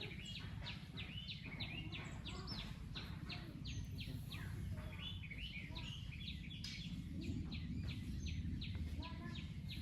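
Birds chirping, many short rapid calls overlapping, over a steady low background rumble.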